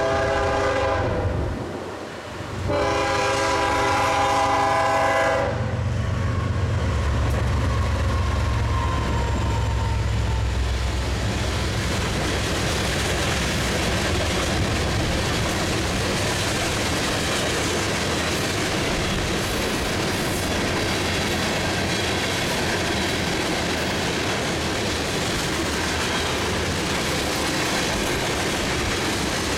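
BNSF diesel locomotive horn sounding for a grade crossing: one blast ends about a second and a half in, then a second blast follows from about three to five seconds in. The lead locomotives then pass with a low engine rumble, followed by the steady rolling and clickety-clack of a long string of tank cars.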